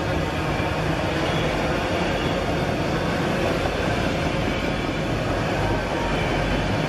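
A train running by, a steady rumble with the rattle of rail cars on the track.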